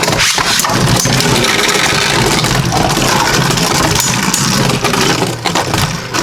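Two Beyblade Burst Turbo spinning tops in SlingShock mode whirring and clashing in a plastic Rail Rush stadium, a steady scraping whirr broken by many quick clicks of contact.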